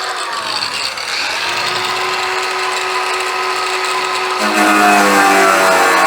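Power tool cutting a slot in a sheet-metal toolbox lid, its whine falling in pitch over the first second or so and then holding steady. Music comes in about four seconds in.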